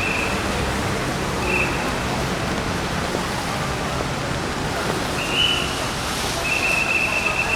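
Rain and crowd chatter on a wet city street, with brief high steady tones three times and a longer one starting near the end.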